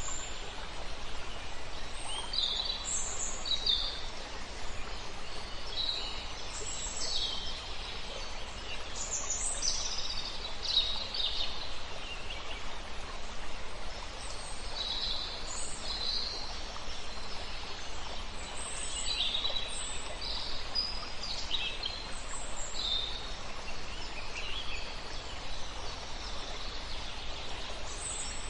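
Several songbirds chirping and singing in short, high phrases, often overlapping, over a steady rushing of a flowing river.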